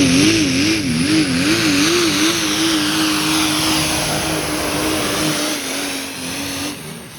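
Diesel pickup truck engine at full throttle pulling the sled, its note wavering up and down at first, then holding steady before the driver lets off near the end.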